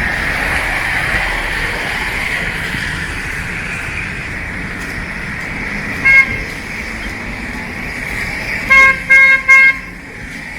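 A vehicle horn gives one short toot about six seconds in, then three quick toots near the end, over a steady background hiss of street traffic.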